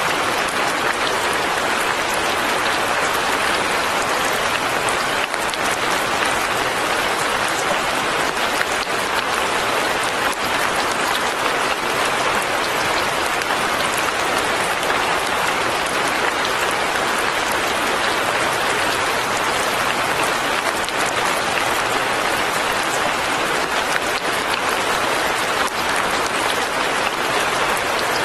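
Steady light rain falling, a dense, even pattering of drops that holds level throughout.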